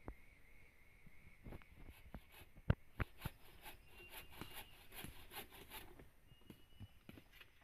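Scattered light knocks, clicks and scraping of wood and gear being handled, with one sharper knock about three seconds in.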